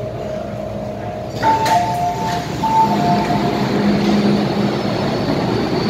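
MTR Island Line M-Train standing or moving with a steady running noise. About a second and a half in, the noise grows louder and a two-note electronic chime alternates for about a second, followed by a lower steady hum.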